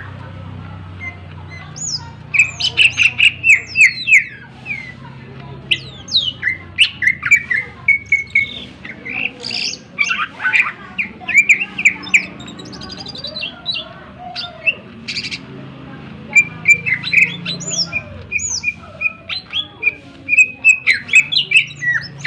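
Greater green leafbird (cucak ijo) singing in loud bursts of rapid, sharp whistles, chirps and sweeping notes, working in mimicked songs of other birds, over a low steady hum.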